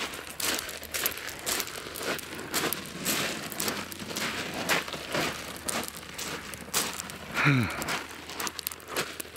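Irregular crunching and crinkling, like footsteps and things being handled on rough ground, with a brief falling grunt-like voice about seven and a half seconds in.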